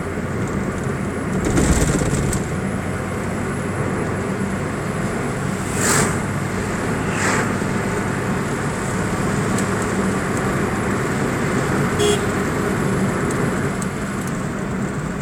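Steady road traffic and vehicle noise, with a few brief, louder sounds about two, six, seven and twelve seconds in.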